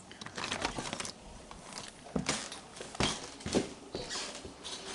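Footsteps and handling knocks as someone walks in toward a door: a scattered series of short knocks and thumps, about six over the span.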